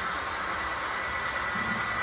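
HO-scale model train running along the layout track: a steady whir of the locomotive's motor and the wheels, with a thin steady whine.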